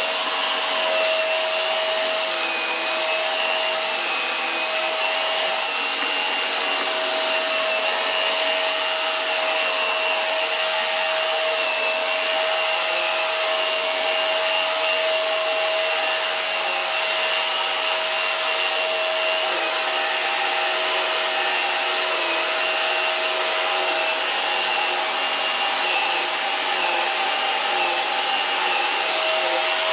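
Hoover PowerDrive Pet bagless upright vacuum running continuously: a steady motor whine over rushing airflow, with a slight wavering in pitch.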